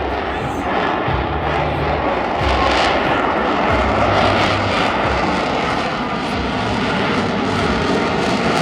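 Loud, steady jet engine noise from an F-35 fighter flying its demonstration.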